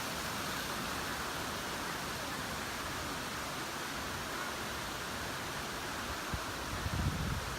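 Steady rush of a waterfall, with a few low thumps near the end.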